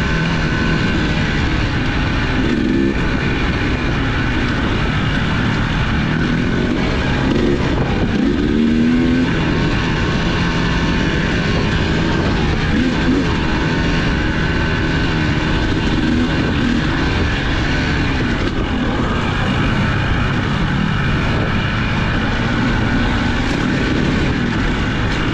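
Off-road vehicle engine running under way, its pitch rising and falling as the throttle changes, over a steady rush of noise.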